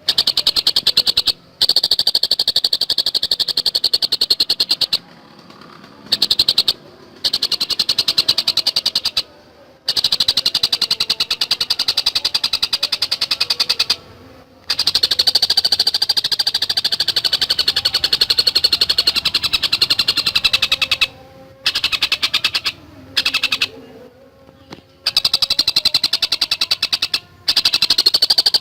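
Collared kingfisher (tengkek buto) calling in very fast, tightly spaced chattering notes, in runs of several seconds broken by short pauses.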